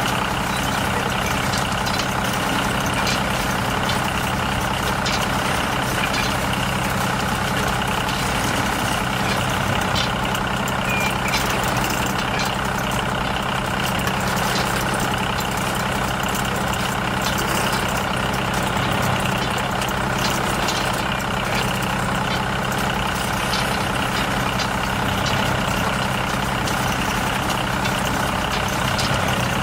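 Heavy vehicle engine idling steadily, an even low hum that neither revs nor stops.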